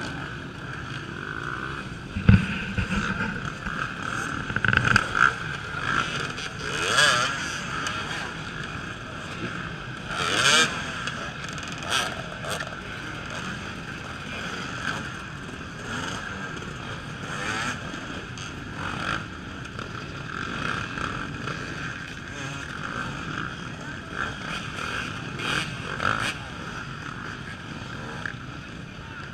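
Off-road enduro motorcycle engines revving in bursts, rising and falling, as riders work over a log obstacle, with more bikes running steadily behind. There is a sharp knock about two seconds in.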